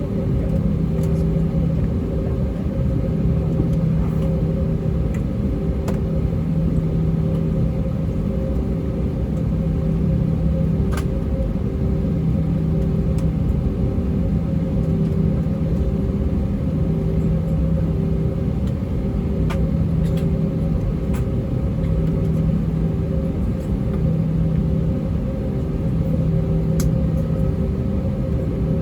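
Steady cabin rumble of an Airbus A320-232 with its IAE V2500 turbofans at idle thrust during taxi. A low engine hum swells and fades in a regular slow pulse every second or two, with a few faint ticks.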